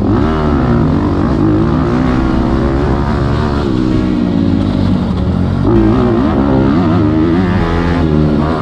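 Motocross bike engine revving, its pitch rising and falling repeatedly as the throttle is opened and closed.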